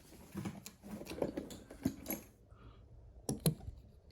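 Small toy vehicles and their packaging being handled: a run of light rustling and clicking, then two sharp clicks in quick succession near the end.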